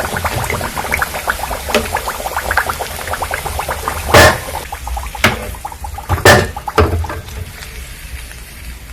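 Batter-coated carrot fritters crackling and sizzling as they deep-fry in hot oil, the crackle dense at first and thinning out later. A few sharp knocks, loudest about four seconds in and again around five, six and seven seconds, as the fried pieces are lifted out.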